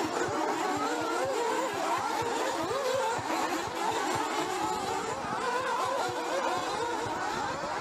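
Several 1/8-scale nitro RC buggies' small glow-fuel engines racing at once, a high buzzing whose pitches keep rising and falling as the cars throttle up and back off around the track.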